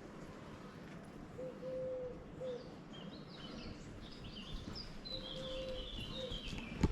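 Birds chirping and twittering in high quick notes, with a few lower whistled notes, over steady outdoor background noise; a single sharp knock right at the end.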